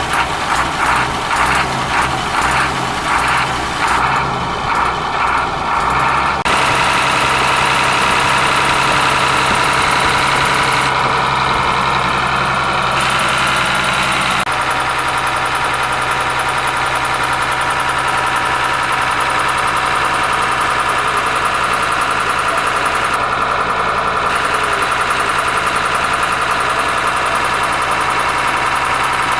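Ashok Leyland bus diesel engine, unused for years, pulsing unevenly about twice a second for the first few seconds, then settling into a steady idle about six seconds in.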